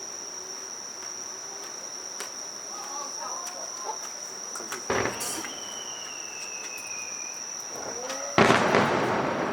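Insects trilling a steady high-pitched note, with faint voices. A sharp bang about five seconds in, followed by a falling whistle, and a sudden loud burst of noise near the end.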